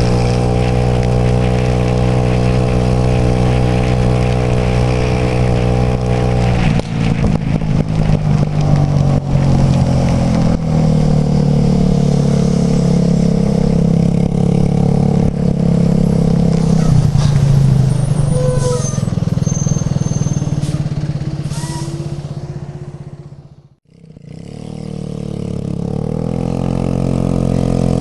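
Suzuki AN125 Burgman scooter's single-cylinder four-stroke engine, heard while riding. It holds a steady note for about six seconds, then turns rougher, with rushing wind noise and crackles. Near the end it fades almost to nothing and comes back.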